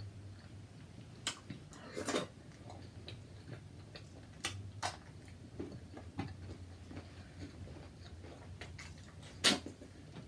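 Close-up eating sounds of someone working through seafood: scattered, irregular clicks and smacks, with the loudest one near the end, over a faint low hum.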